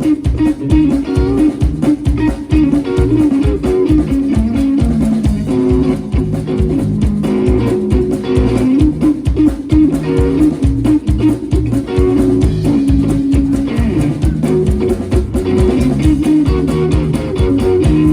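Live blues-rock band playing an instrumental stretch: guitar riffing over bass guitar and a steady drum beat, with no vocals.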